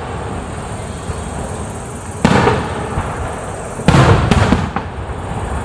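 Aerial fireworks shells bursting: a sharp boom about two seconds in, a louder one near four seconds followed closely by a smaller crack, each trailing off in a rumble.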